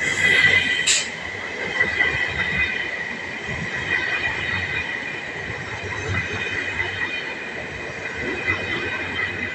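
ÖBB Railjet passenger train rolling slowly along the platform as it brakes, its wheels or brakes squealing in steady high tones over the rumble of the coaches. A short hiss comes about a second in.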